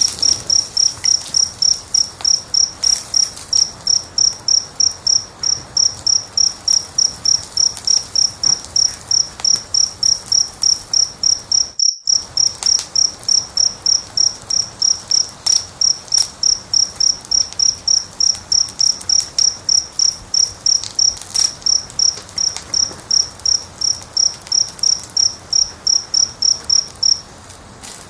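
A cricket chirping steadily at a high pitch, about three chirps a second, stopping just before the end, over the faint crackle of a fire. All sound cuts out for a split second about midway.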